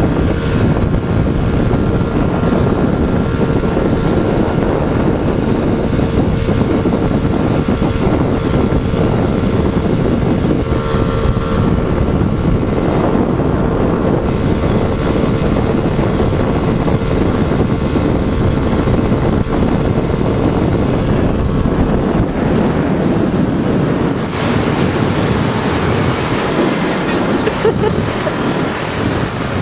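Motorcycle engine running at steady high road speed, heard under heavy wind buffeting on the microphone. The steady engine note fades a few seconds before the end.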